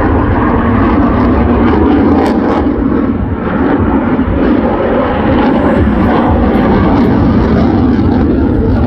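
F-35 fighter jet's engine, a loud continuous roar as the jet flies its display.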